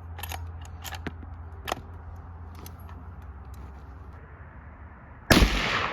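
A single 9 mm pistol shot about five seconds in, the loudest thing by far, its report dying away over the following second. A few faint clicks come before it.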